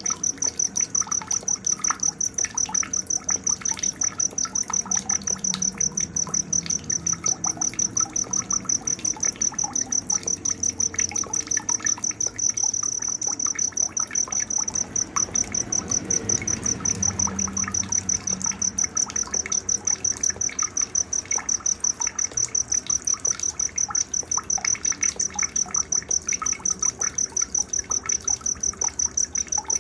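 Night insect chorus, led by a cricket-like insect giving a steady, high-pitched pulsing trill several times a second, with fainter scattered chirps and calls underneath.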